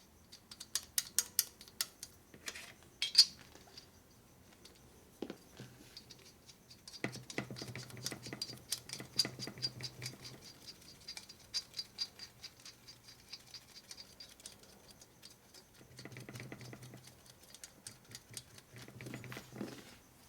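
Small metal parts and hand tools clicking and clattering: a few sharp separate clicks at first, then long runs of rapid light ticking and rattling.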